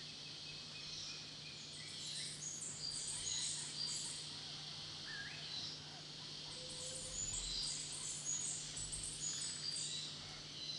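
Forest birds calling: many short, high-pitched chirps and twitters, coming in busy clusters, over a faint steady low hum.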